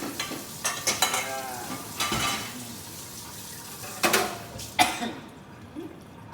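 Curry sizzling in a pan while a metal utensil stirs and knocks against the pot several times. The sizzling hiss drops away about five seconds in.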